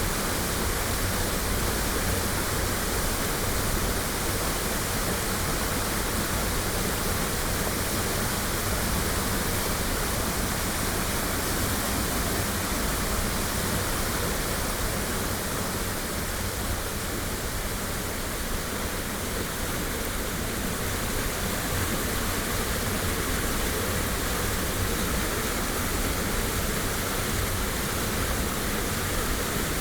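Waterfall pouring steadily: an even, unbroken rush of water filling low and high pitches alike, recorded binaurally close to the falls.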